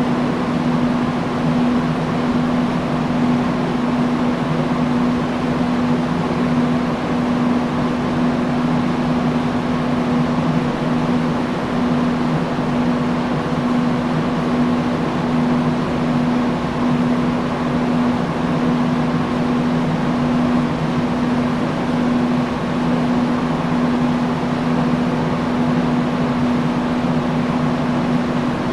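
Industrial fan running steadily: an even rush of air with a steady low hum from its motor.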